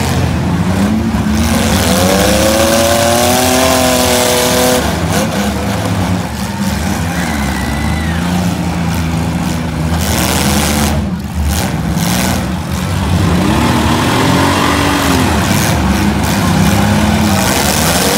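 Several demolition derby cars' six-cylinder engines revving hard together, their pitches rising and falling as the cars push against each other, with one engine climbing steeply in pitch about two seconds in.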